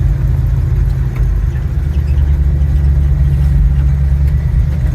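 Old pickup truck driving down the road, heard from inside the cab: a steady, loud low rumble of engine, drivetrain and road noise.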